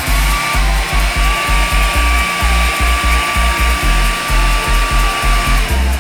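Syska HD1610 1200 W hair dryer running with a steady blowing hiss, over background music with a steady beat and a held melody.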